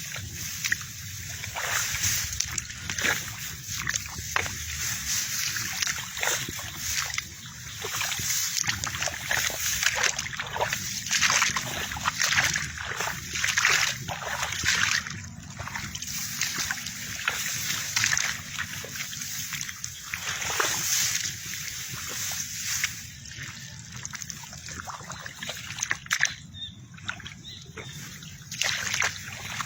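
Irregular splashing and swishing, footsteps wading through a wet rice paddy.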